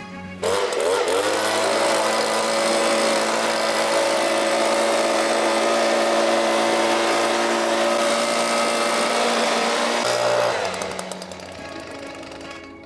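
Electric blower motor spinning up with a short rising whine, then running steadily and blowing air for about ten seconds before winding down. It is being used to clear leaked air-conditioner refrigerant gas from the air.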